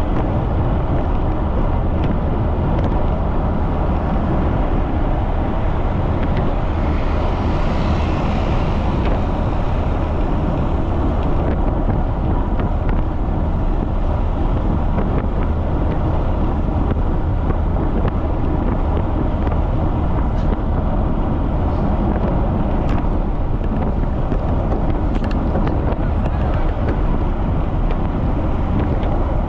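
Strong wind buffeting the microphone of a camera riding along on a bicycle at speed: a loud, steady rumble. A brief brighter hiss comes in about eight seconds in.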